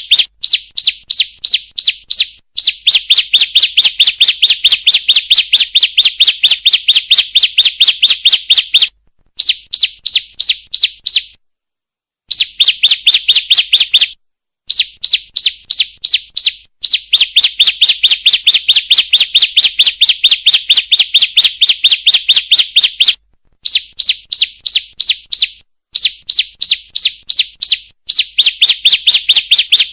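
Female ciblek (prinia) call used as a bird lure to attract males: a fast, even series of sharp high chirps, about six a second. It comes in runs of several seconds broken by short pauses.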